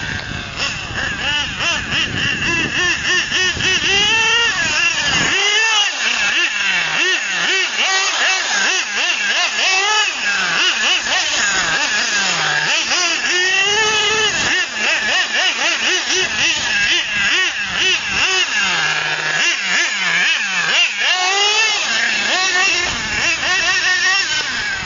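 OS 30 nitro engine of an XRAY XT8 1/8-scale RC truggy running at high revs, its high whine rising and falling again and again as the throttle is worked.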